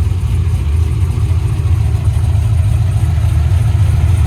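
Camaro V8 idling loud and low-pitched, steady throughout, loud enough to wake you up.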